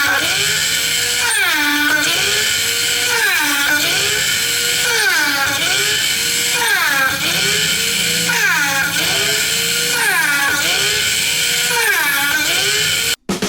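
Small electric motor of a homemade mini bench drill whining. Its pitch dips and climbs back about every 1.7 seconds, about eight times, and the sound cuts off suddenly near the end.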